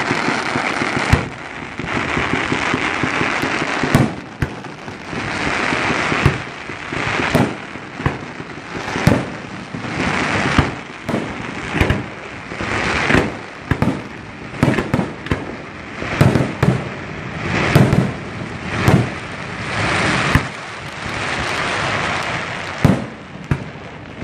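A fireworks display: rapid bursting shells with sharp bangs, one to two a second, with crackling and hissing between them.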